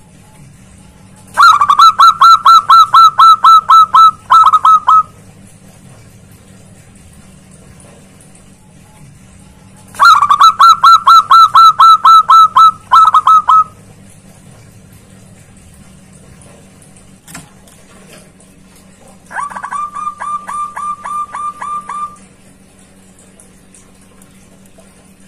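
Zebra dove (perkutut) calling: two loud bouts of quick staccato cooing notes, about five notes a second, each lasting some three seconds. A softer, shorter bout follows near the end.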